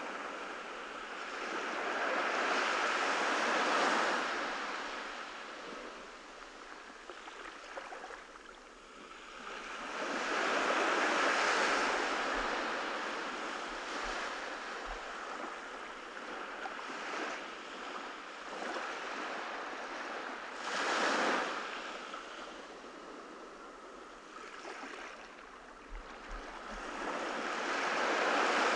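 Ocean surf breaking on a beach: waves swell in and wash back roughly every eight seconds, with one shorter, sharper crash about two-thirds of the way through.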